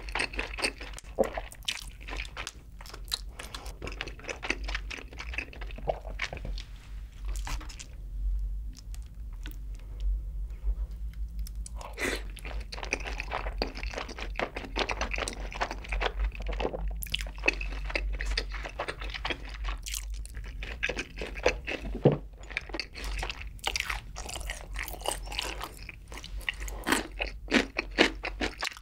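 Close-miked mouth sounds of eating sauced Korean fried chicken with rice: steady, irregular chewing with crunching and wet clicks, softer for a few seconds about a quarter of the way through.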